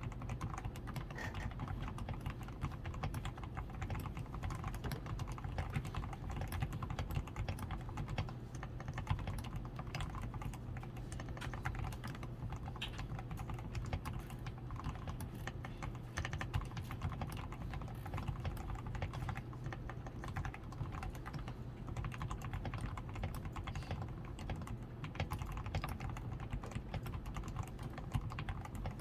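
Continuous typing on a DAREU A87 Pro mechanical keyboard, fully lubed with Krytox 105, with a tape-modded PCB, lubed stabilizers and XDA keycaps: a dense, steady stream of keystrokes.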